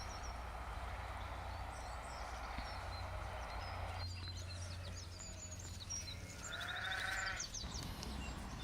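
A single bleat from a goat or sheep, about a second long, about six and a half seconds in, over a steady outdoor hiss.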